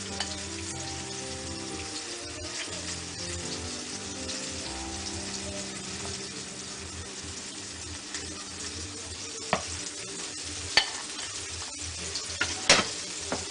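Floured vegan cutlets pan-frying in olive oil with a steady sizzle. Several sharp clicks come in the last few seconds.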